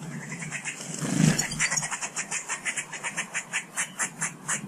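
A garden bird calling a rapid, harsh chattering note, about six or seven a second. There is a short dull thump about a second in.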